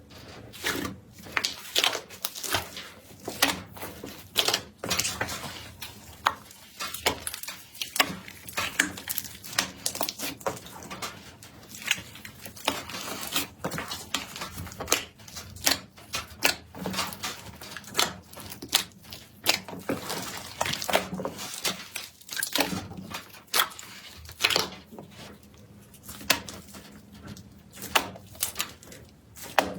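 Slime being pressed and squeezed by hand, giving a dense, uneven run of sharp clicks, pops and crackles, several a second.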